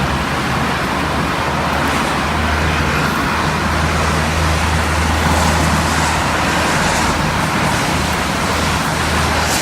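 Rain falling steadily, a dense even hiss, over a steady low rumble.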